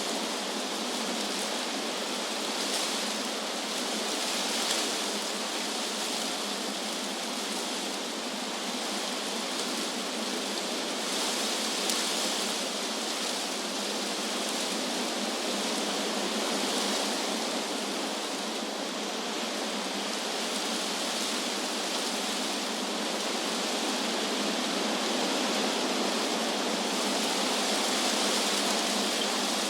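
Wind blowing through trees: a steady rustling hiss of leaves that swells and eases a little every few seconds.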